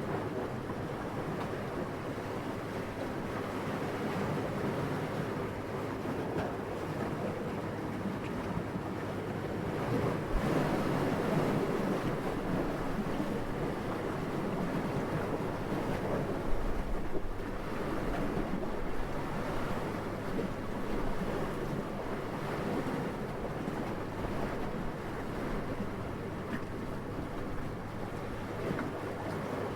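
Steady night wind with no tones in it, rising and falling in long swells, with stronger gusts about ten seconds in and again around seventeen seconds.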